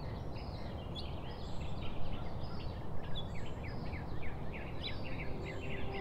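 Outdoor ambience: birds chirping in many short, quick notes, several a second, over a steady low rumble.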